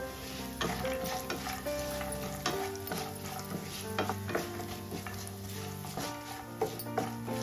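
A tempering of cumin, pepper, green chillies, curry leaves and cashews sizzling in ghee in a nonstick pan, stirred with a spoon that knocks and scrapes against the pan at irregular intervals. Soft background music plays under it.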